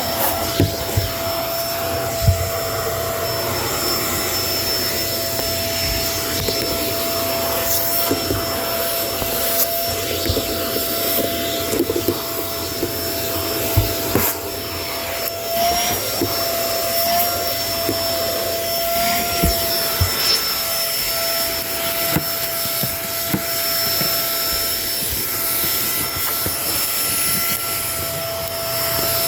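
Kenmore vacuum cleaner running with a steady motor whine over airflow noise. Scattered small clicks and knocks sound as it works, and its pitch wavers briefly about halfway through.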